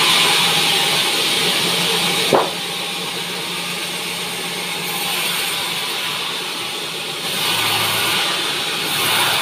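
Band sawmill running and sawing a pine log, a steady mechanical noise with a single sharp knock about two and a half seconds in; after the knock the sound eases, then grows louder again near the end.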